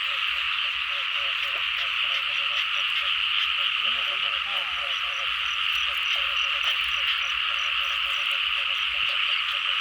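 Dense, unbroken chorus of many frogs calling, with a faint, rapid high ticking over it in the middle.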